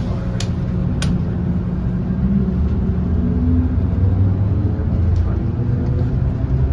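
Walt Disney World monorail running, heard from inside the car: a steady low rumble and hum that grows a little louder partway through, with two light clicks about half a second and a second in.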